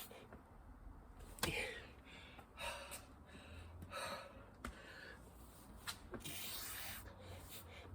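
A person breathing hard in repeated heavy gasps and exhales from exertion, with a few sharp knocks in between.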